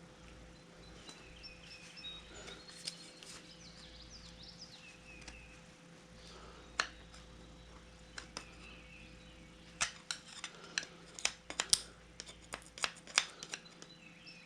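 Sharp metallic clicks and taps of a screwdriver and steel U-joint parts being worked by hand: a few isolated clicks, then a quick run of clicks from about ten seconds in.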